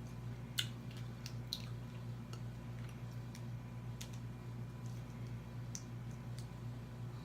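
Close-up eating sounds of crab legs: scattered wet mouth clicks and smacks while chewing, over a steady low hum.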